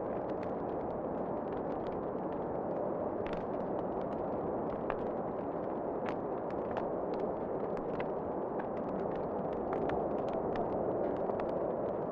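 Wood fire crackling in a fireplace: a steady low rush with frequent sharp pops and snaps scattered throughout, under a low howl of wind.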